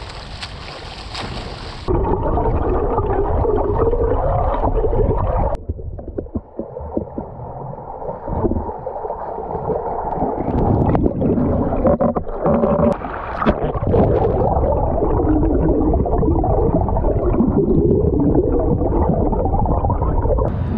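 Muffled sloshing and gurgling of water around a camera on a swimmer in open water, with abrupt changes in the sound as clips cut.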